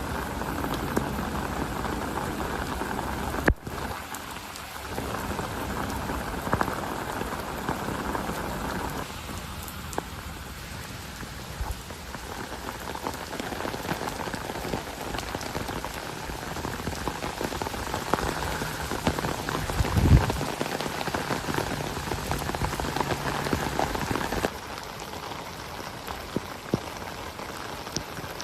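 Heavy rain falling and pattering on surfaces, a dense steady hiss with scattered drop ticks, changing abruptly in level twice. About two-thirds of the way through, a short low thump stands out as the loudest sound.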